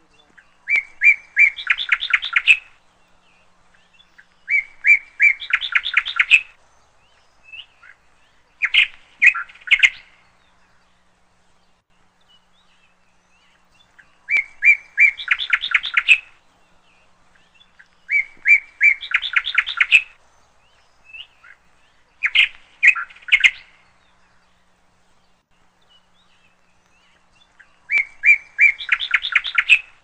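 A songbird singing the same short phrase seven times, a few seconds apart. Each phrase is a few even notes followed by a quick trill.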